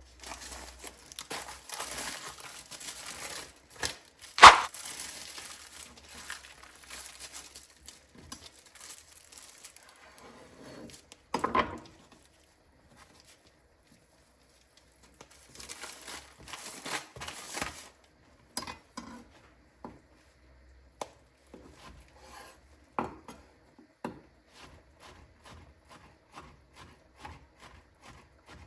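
Mortadella being handled and sliced with a knife on a wooden cutting board: crinkling and rustling, a few sharp knocks of the knife on the board, then a run of evenly spaced knife taps.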